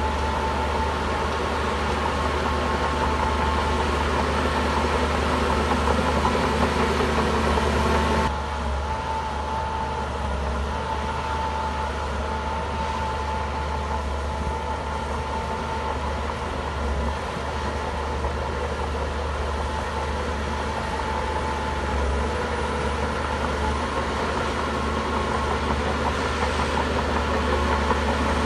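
Shantui bulldozer's diesel engine running steadily with a deep hum and a thin high whine over it; the sound drops abruptly about eight seconds in and builds back up near the end.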